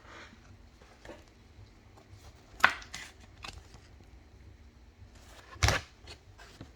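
Trading cards being handled and flipped through by hand, with faint rustling and two sharp clicks about three seconds apart.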